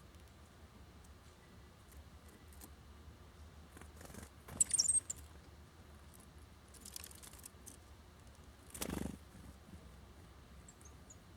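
Small songbirds at a seed feeder: a few brief high chip notes about halfway through and faintly near the end, with light rustles and a soft thump about nine seconds in, over a low steady hum.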